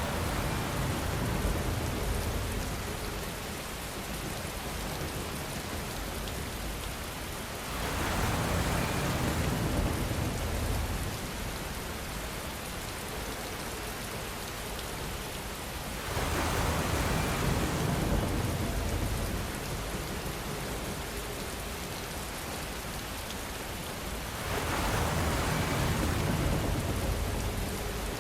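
Steady rainfall hissing, swelling louder and deeper four times at about eight-second intervals, each swell lasting a few seconds.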